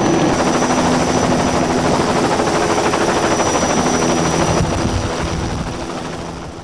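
Steady engine drone that fades out over the last second or two.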